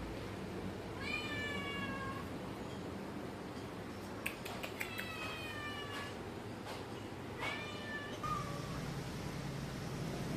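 Domestic cat meowing: three drawn-out meows of about a second each, falling slightly in pitch, and a short one near the end, with a few light clicks between them.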